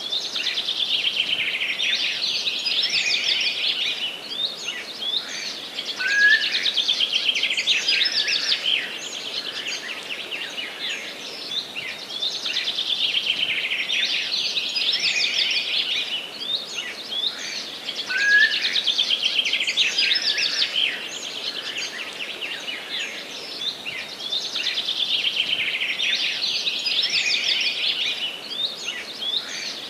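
Songbirds singing in a forest: dense, rapid high-pitched warbling phrases of a few seconds each, coming back about every six seconds, with a short rising call note about every twelve seconds, over a faint steady background hiss.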